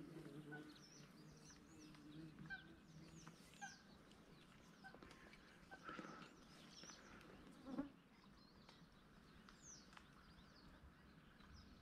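Near silence with faint, scattered short bird chirps, and a single soft thump about two-thirds of the way through.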